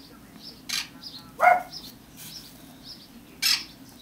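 A small bird chirping over and over, about two short high chirps a second, with one louder, lower call about one and a half seconds in and two brief hissy bursts.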